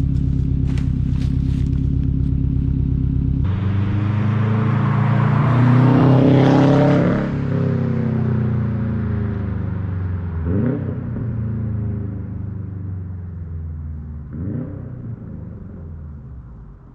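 2021 Subaru WRX STI's turbocharged 2.5-litre flat-four through an RK Titanium titanium catback exhaust, idling steadily up close. After a sudden cut about three seconds in, the car drives past, loudest about six seconds in, and pulls away, the revs rising twice as it fades into the distance.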